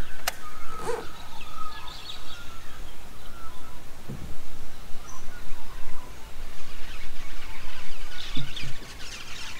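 Birds chirping over a steady low background rumble of outdoor noise.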